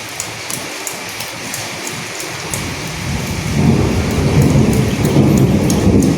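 Steady rain falling, with scattered individual drops. About halfway in a low rumble of thunder swells up and stays loudest to the end.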